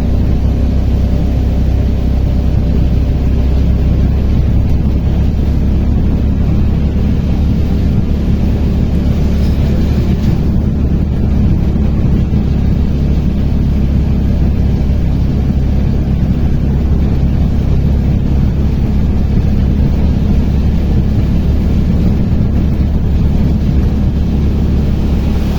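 Auto-rickshaw (tuktuk) engine running steadily while the vehicle drives on, heard from inside the cab with road noise.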